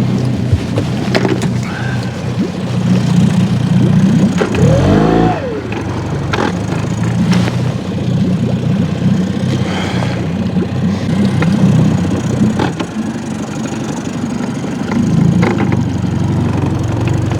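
Boat motor running steadily, revved up and back down briefly about five seconds in, with a few sharp knocks.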